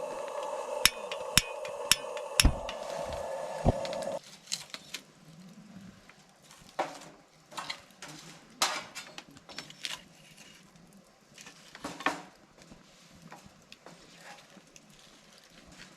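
A steady rushing sound with several sharp knocks over it, cutting off suddenly about four seconds in, followed by scattered light clicks and clinks like dishes and utensils being handled.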